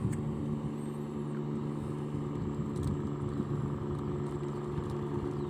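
An engine running steadily at a constant pitch with a low rumble.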